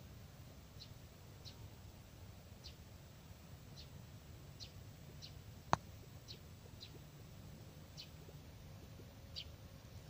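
A bird repeating a short high chirp about once a second over a faint low rumble. One sharp click a little before six seconds in is the loudest sound.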